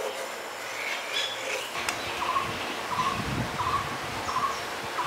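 A bird calling: a short note repeated evenly, about every 0.7 seconds, starting about two seconds in, over a brief low rumble.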